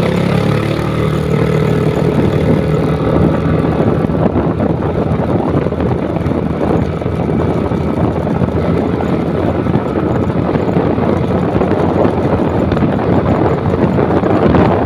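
Motorcycle under way, its engine running with a steady rush of wind on the microphone; the engine's tone stands out for the first couple of seconds, then the wind rush covers most of it.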